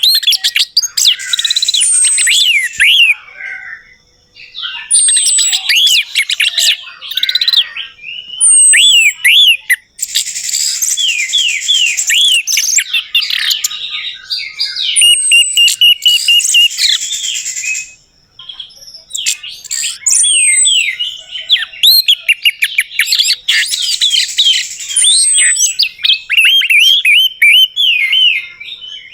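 Orange-headed thrush (anis merah) song: loud, rapid, varied phrases of sweeping whistled and chattering notes, sung in long runs with a few short pauses.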